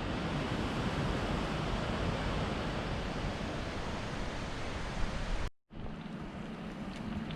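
Steady rushing of a waterfall, an even roar of falling water. It cuts out about five and a half seconds in and resumes a little quieter, with a low hum under it.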